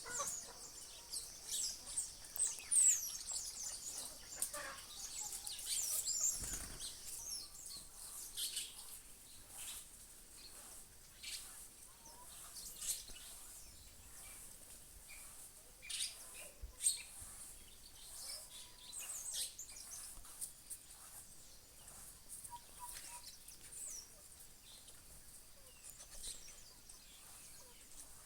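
Several birds chirping and calling, with many short high notes that are densest in the first few seconds and thin out later. There is a brief low thump about six and a half seconds in.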